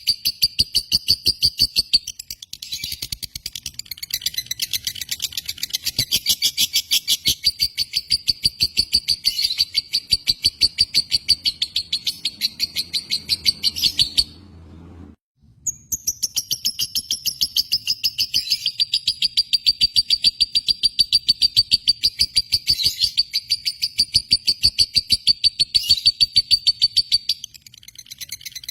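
A lovebird chattering in a long, rapid run of sharp, high chirps, several a second; it breaks off for about a second and a half midway, then starts again.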